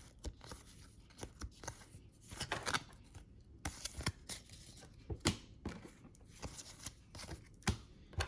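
Trading cards being handled and flicked through one by one: faint, irregular crisp clicks and papery rustles of card stock.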